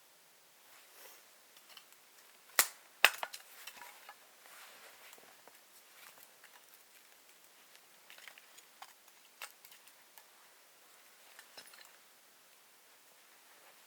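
Dry wood snapping: two loud sharp cracks about half a second apart, a little under three seconds in, amid softer scattered snaps and crunches.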